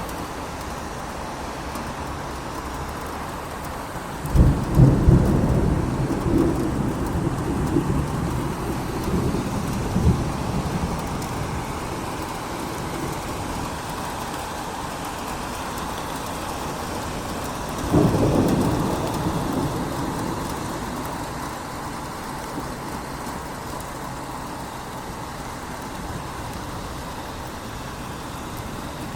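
Steady rain falling, with two low rolls of thunder: an uneven rumble from about four seconds in that lasts several seconds, and a sharper one about eighteen seconds in that dies away slowly.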